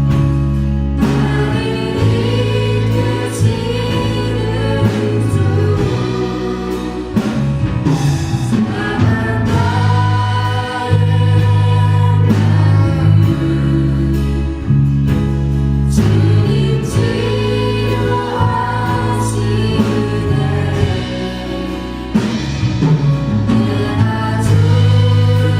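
A church praise band playing a worship song with a group of voices singing along, steady bass and drums under it.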